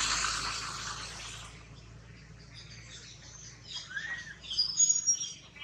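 A loud rushing noise fades away over the first second and a half. Then, in the second half, birds chirp in the forest with a few short, thin high notes and one rising-and-falling note.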